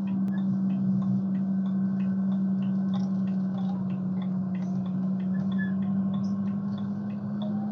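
Car driving at a steady pace, heard inside the cabin: an even engine and road drone that holds one pitch throughout, with faint irregular light ticks over it.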